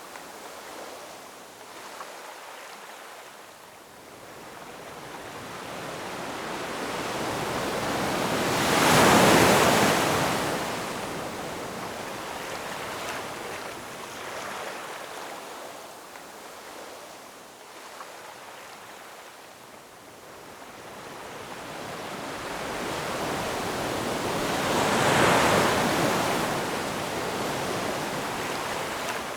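Ocean waves breaking on a shore: a steady wash of surf that swells slowly and peaks twice, about a third of the way in and again near the end, each wave crashing and then receding.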